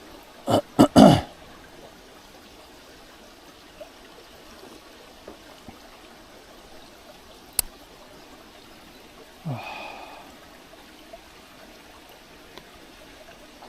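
Mountain stream flowing steadily. About half a second in, three short breathy bursts from a person drinking very hot coffee, with a single sharp click partway through and a short falling exhale-like voice sound later.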